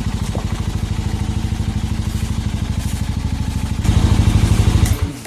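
Suzuki motorcycle engine running while riding, with a steady rapid firing pulse; it gets louder about four seconds in and then cuts off suddenly near the end.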